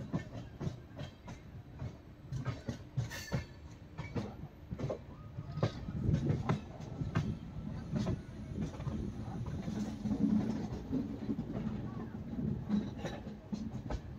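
Passenger express train running along the track: a steady low rumble with wheels clicking repeatedly over rail joints, growing louder about six seconds in.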